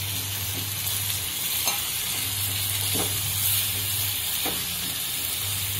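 Tomato, onion and cashew masala sizzling in a nonstick kadhai while a spatula stirs it, a steady hiss with a few short scrapes of the spatula against the pan. A little water has just gone in, so the masala is bubbling as it cooks down.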